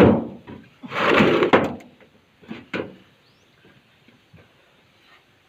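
A sharp knock, then a scraping slide lasting under a second and two light clicks, like a hard lid or panel being moved and set in place.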